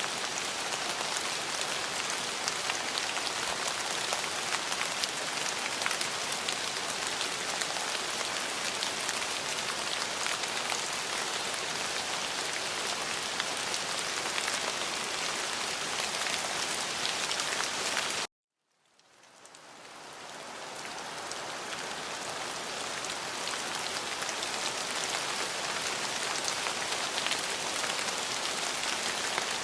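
Steady rain falling on a surface, an even hiss with many fine drop ticks. A little past the middle it cuts out suddenly to silence for about half a second, then fades back in over a few seconds, as at the seam of a looped recording.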